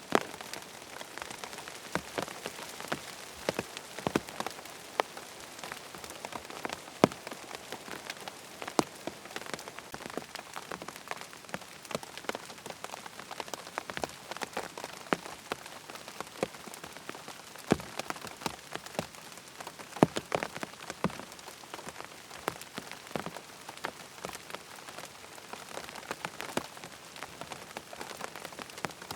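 Steady rain falling on a tent, an even hiss with many irregular sharp taps of single heavier drops hitting the fabric.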